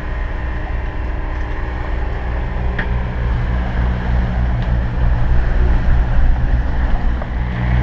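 Steady low drone of the catamaran's engine running while motor-sailing, with the rush of wind and water around the hull.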